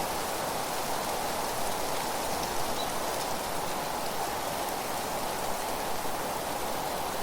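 Steady wind rustling through dry fallen leaves, an even, unbroken hiss.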